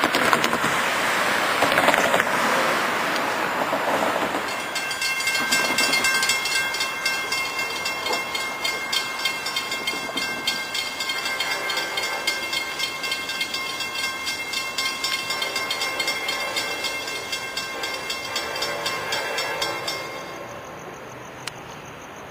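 A train passing close by: a fast, regular clicking of wheels over the rails with steady high ringing tones over it. The sound drops off suddenly near the end.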